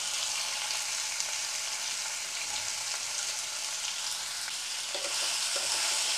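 Shredded bottle gourd sizzling steadily in hot oil in a kadai. Near the end a wooden spatula starts stirring it, and the sizzle grows a little louder.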